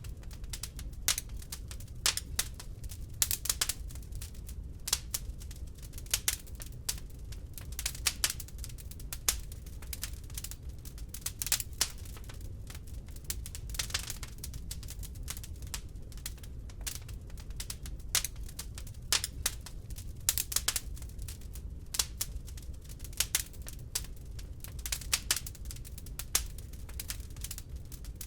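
Wood fire crackling in a fireplace: irregular sharp pops and snaps, several a second, some louder than the rest, over a low steady rumble.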